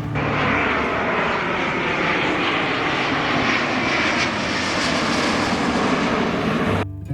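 Jet airliner flying low overhead: a loud, steady rushing noise that cuts off suddenly near the end.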